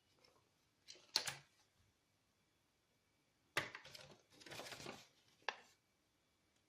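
Small objects and packaging being handled: a few sharp clicks and knocks, about a second in, midway and near the end, with about a second of rustling before the last click.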